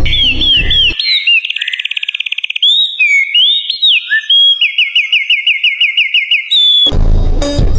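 A songbird singing a varied song of clear whistles: a few down-slurred notes, a fast trill, swooping whistles, then a quick run of about seven rising notes a second. Music plays under the first second and comes back near the end.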